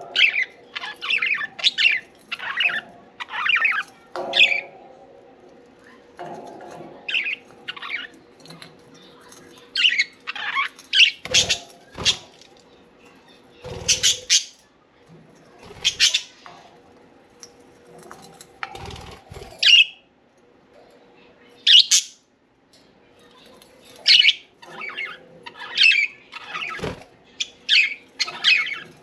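Budgerigars chirping and squawking in quick short calls, broken by a few dull thumps.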